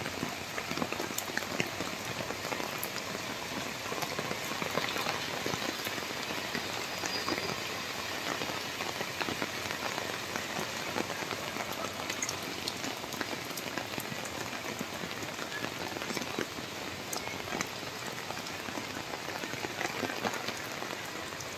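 Rain falling steadily, a constant hiss of rain with many individual drops striking hard surfaces as small sharp ticks.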